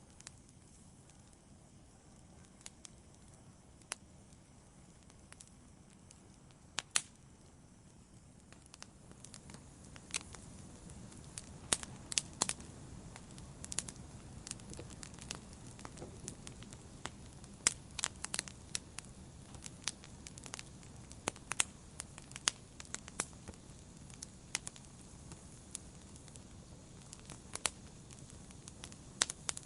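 Wood campfire crackling: sharp snaps and pops of burning wood over the fire's low, steady hiss. The pops are sparse at first and come much more often from about a third of the way in.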